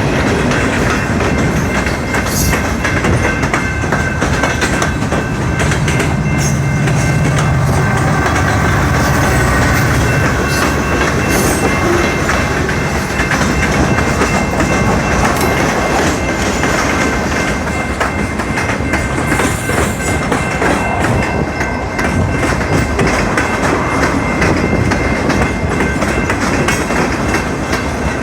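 Freight train cars rolling past at close range, their wheels clattering over the rail joints, with a faint steady high squeal from the wheels.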